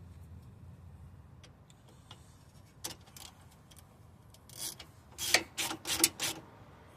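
Metal tools and parts clicking and clinking: a couple of light clicks, then about six sharp clinks in quick succession in the second half.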